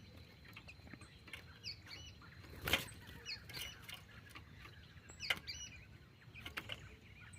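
Ultramarine grosbeak (azulão) giving faint, short, high chirps scattered through the stretch, with two sharp clicks, about three and five seconds in.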